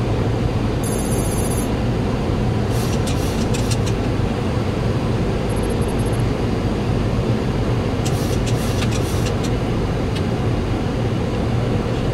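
Boeing 737-800 flight deck on approach: steady rushing of airflow and engines with a low hum. Short runs of clicks come a few times, about three and eight seconds in, and a brief rapid high ticking about a second in.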